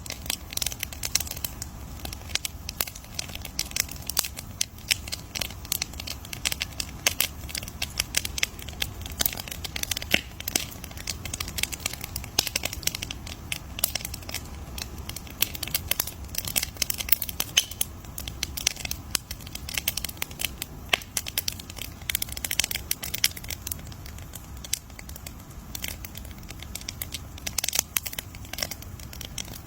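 Campfire crackling: a dense, irregular stream of sharp pops and snaps from burning wood over a low, steady rumble of flame.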